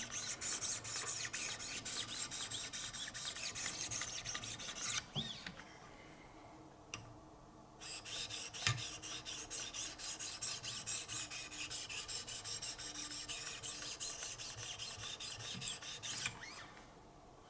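Wicked Edge guided sharpener's 1,500-grit diamond stones drawn in quick strokes, about three a second, along an S90V steel knife edge, a rhythmic scraping rasp. The strokes pause for about three seconds a third of the way in, resume, and stop shortly before the end.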